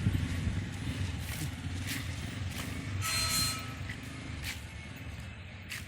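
Motorcycle engine running steadily at low revs while the rider works the clutch. A short hiss with a faint whine comes about three seconds in.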